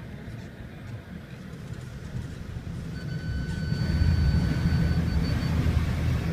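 Low vehicle rumble building as the car pulls into the automatic car wash bay. A steady electronic beep comes in about three seconds in, holds for about two seconds, then stutters off.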